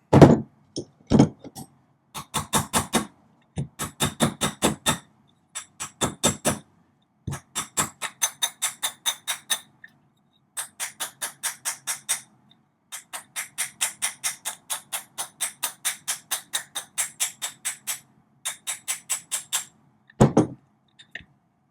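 Runs of rapid, evenly spaced metallic clicks, about seven a second, each run lasting one to two seconds with short pauses between, like a ratchet or click mechanism being worked. A few heavier knocks come at the start and near the end.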